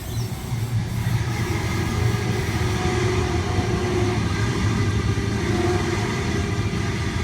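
Electric train passing through the station at speed without stopping: a steady rumble of wheels on rails with a faint whine, building over the first second or two and easing near the end.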